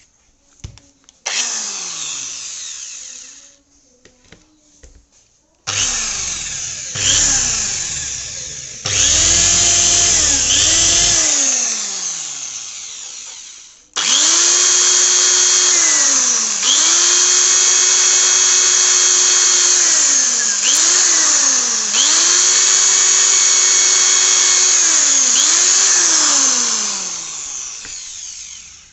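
Buildskill 300-watt corded electric drill running repeatedly: its motor whines up to a steady high pitch and winds down when the trigger is released, several times over, with a few quick dips and recoveries during the long run in the second half. From about six to eleven seconds in, a low rumble sounds under the motor.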